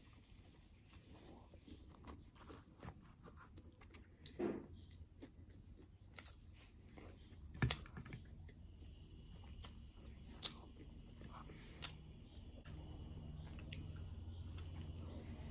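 Close-miked mukbang eating: biting and chewing a flaky baked chicken pastry roll, with many small crisp crackles and wet mouth clicks, and a few louder bites or crunches. A low steady hum comes in near the end.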